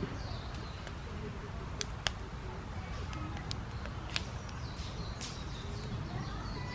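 Wood fire burning in a Snow Peak fire pit, crackling with a few sharp pops and snaps over a steady low hiss.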